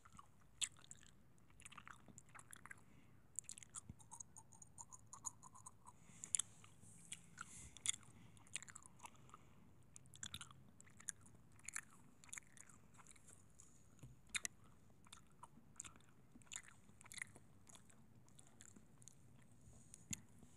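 Faint, close-miked ASMR trigger sounds: irregular small clicks and crackles, several a second, of the chewing or mouth-sound kind.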